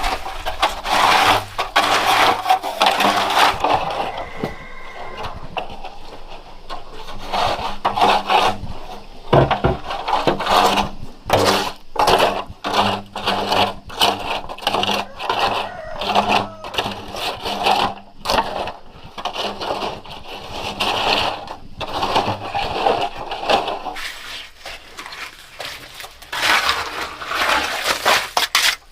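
Irregular scraping, rubbing and knocking of hand work, many short clicks and scrapes following one another unevenly.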